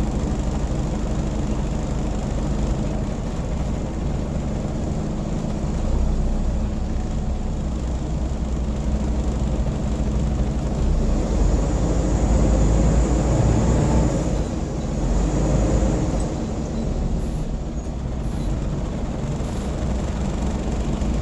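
Scania N94UB single-deck bus's diesel engine and drivetrain heard from inside the saloon while under way: a steady deep hum that grows louder as the bus pulls harder a little past halfway, then eases off again.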